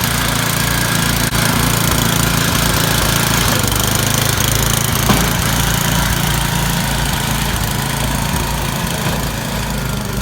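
An engine idling steadily with an even low hum, just started in the cold.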